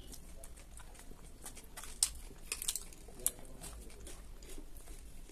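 Close-up mouth sounds of chewing vegetable salad by hand-fed mouthfuls, with several sharp crisp crunches about two to three seconds in.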